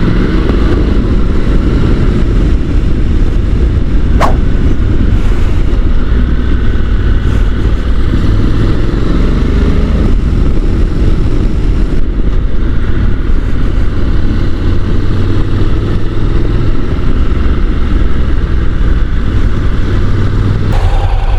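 Honda NC750 motorcycle under way: its engine runs under a steady, heavy rush of riding wind, and the engine note rises a few times as the bike pulls away and accelerates. A single sharp click comes about four seconds in.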